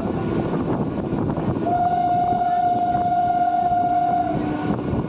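A passing train rumbling on the track, with one long horn blast that starts about two seconds in and lasts about two and a half seconds on a single steady pitch.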